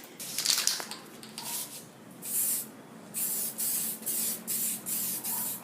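Aerosol spray-paint can spraying in hissing bursts: one longer burst about two seconds in, then short quick bursts about two a second.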